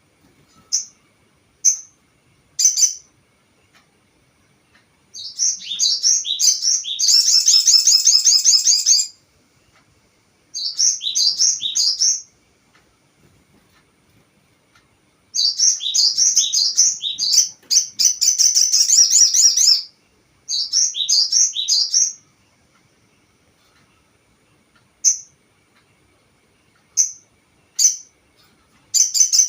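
A sogon (crested jay) singing: short single high chirps and several long, fast rattling trills of repeated notes lasting a few seconds each, separated by short pauses.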